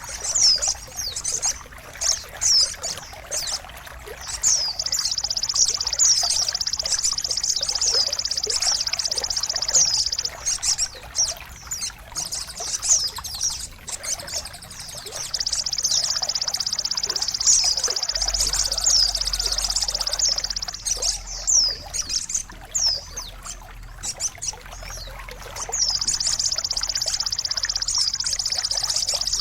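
Songbird song for training caged birds: high, rapid trills and repeated quick downward-sweeping chirps over steadily trickling water. The trill breaks off twice for a few seconds while the chirps and water go on.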